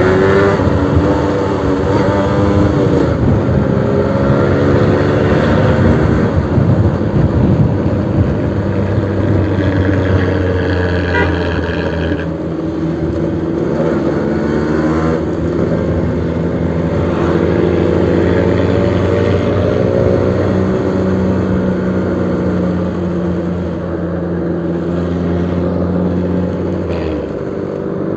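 Suzuki RC100 two-stroke single-cylinder motorcycle engine running through a new aftermarket exhaust, its pitch rising and falling repeatedly as it is revved and eased off.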